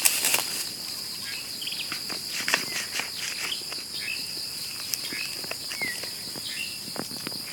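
Steady high-pitched insect chirring, with scattered short rustles and snaps of leaf litter and soil as termite mushrooms are picked by hand.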